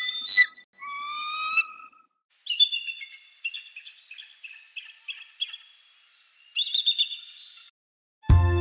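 Songbirds calling: a few clear whistled notes in the first two seconds, then a fast, chattering song of many short notes lasting about five seconds. Music starts just before the end.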